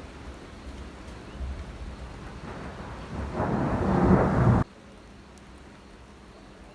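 Thunder rumbling over steady rain: the rumble builds over a couple of seconds to a loud peak, then cuts off suddenly a little past halfway, leaving a quieter steady hiss.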